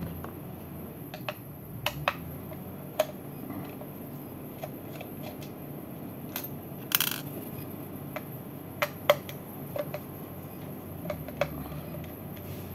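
Scattered sharp metallic clicks and taps of hands and tools working at a washing machine drain motor, prying out a screw lodged inside it. A brief scraping rasp comes about seven seconds in.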